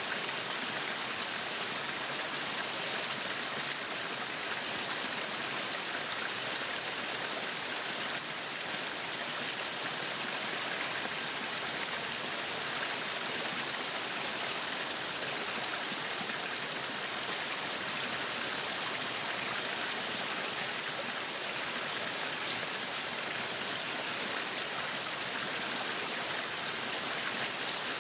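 Meat sizzling steadily on a yakiniku grill, a continuous even crackle and hiss with no pauses.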